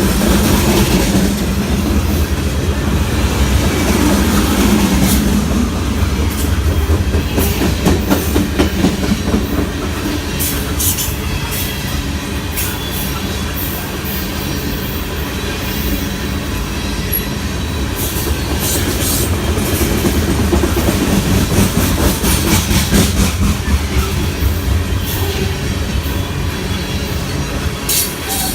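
Metra commuter train rolling past on the BNSF line: a steady heavy rumble with clusters of sharp clicks from the wheels running over rail joints.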